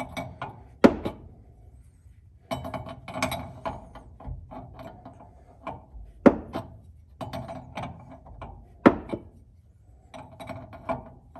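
Tools and hardware being handled and rummaged through: irregular clatter with three sharp knocks about a second, six seconds and nine seconds in.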